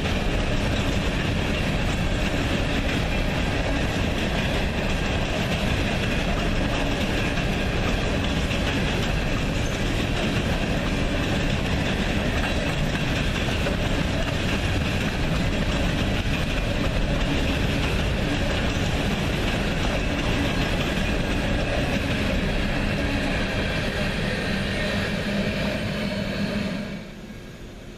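A train rolling past, its railcars making a steady rumble of wheels on rail with faint squealing tones. The sound drops away suddenly near the end.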